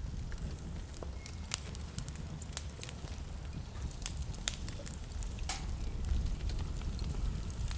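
Wood fire burning in a fireplace: a steady low rumble of flame with irregular crackles and sharp pops of the burning logs.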